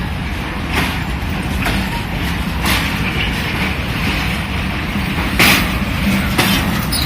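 Moving train running with a steady low rumble, its wheels clacking over rail joints about once a second.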